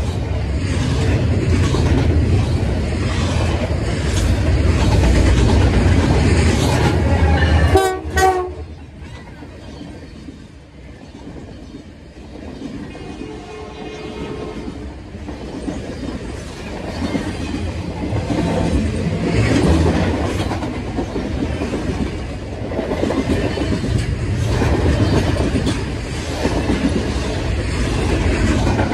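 Freight cars rolling past at close range, wheels clacking over the rail joints. About eight seconds in there is a brief horn-like tone, and the noise drops off sharply, then builds again as more cars pass.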